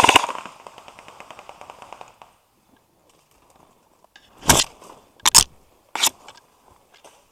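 Airsoft electric guns firing on full auto. A long rapid burst cuts off just after the start, and fainter rapid fire fades out over about two seconds. Three short, loud, sharp bangs follow in the second half.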